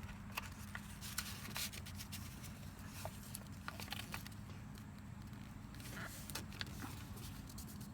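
A sheet of paper being folded and creased by hand, with faint crinkles and short crackling clicks scattered through, over a low steady hum.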